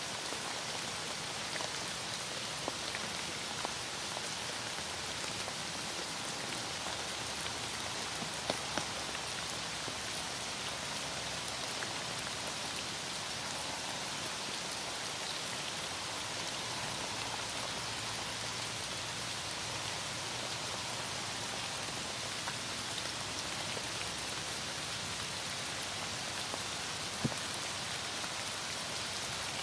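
Heavy rain falling steadily, an even hiss with a few isolated light ticks.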